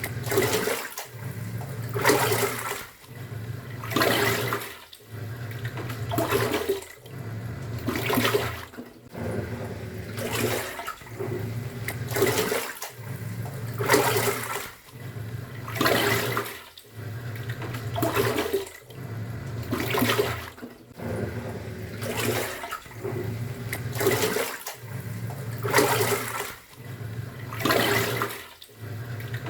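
Top-loading pulsator washing machine in its wash cycle: the motor hums as the pulsator turns, then reverses about every two seconds, each turn sending a loud swish of churning water and laundry.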